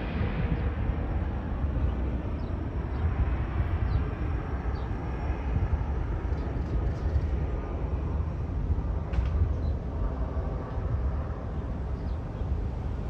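Jet airliner climbing away after takeoff, its roar fading into the distance over a steady low rumble.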